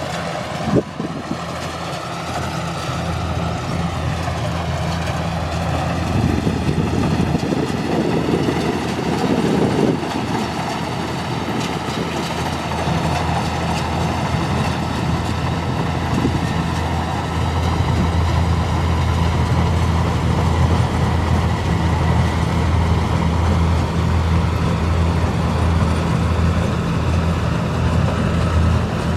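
Kubota rice combine harvester running steadily with a continuous low machine hum, a sharp knock about a second in, and a rougher, louder stretch a few seconds later.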